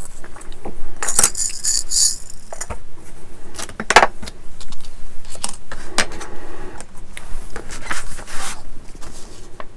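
Small parts of a plastic scale-model kit and small metal tools or screws being handled on a workbench: scattered clicks, taps and light clinks, with a short rustle about a second in.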